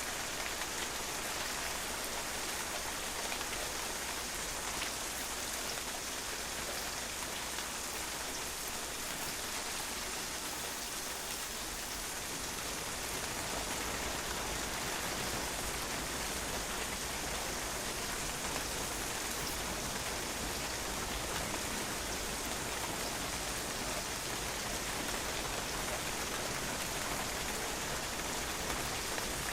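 Steady rain falling and spattering on a patio, an even hiss of drops.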